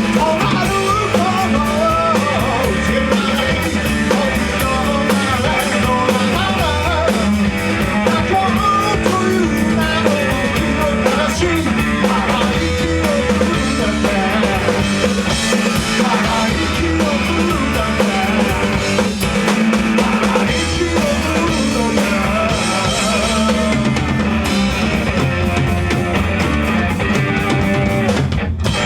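A rock band playing live, with a drum kit and electric guitar driving a fast song. The music breaks off for a moment near the end.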